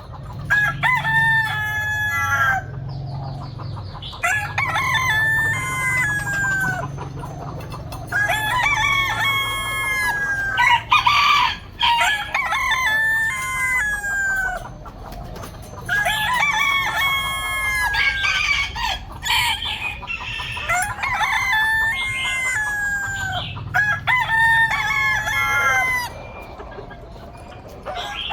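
Roosters crowing one after another, a crow every few seconds, some crows overlapping.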